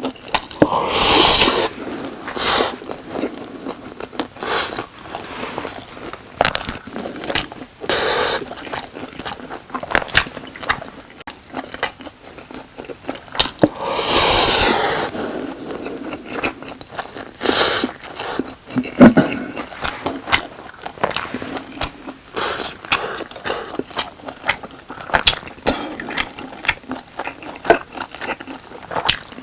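Close-miked eating sounds: chewing boneless sauced chicken and rice, with many small wet mouth clicks. There are two louder, longer noisy bursts, one about a second in and one about halfway through.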